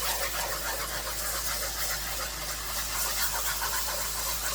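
Chicken broth being added to a hot flour-and-butter roux in a skillet, sizzling steadily with a crackling hiss as it is whisked in to make gravy.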